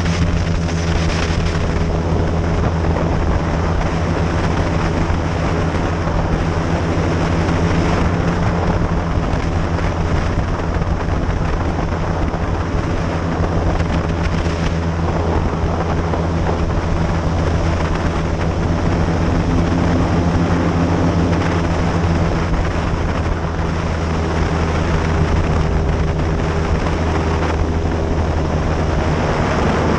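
Airboat engine and propeller running steadily at speed: a loud, deep, even drone with a rushing noise over it.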